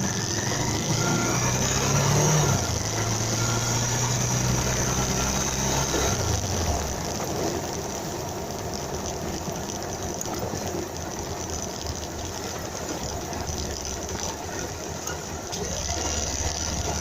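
Motorcycle engine running at a low idle, its hum stepping down in pitch and dying away about seven seconds in, after which only a steady hiss remains.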